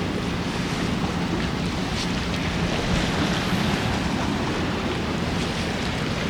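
Strong wind buffeting the microphone, a steady rushing noise, with a faint low hum that fades out a little before halfway.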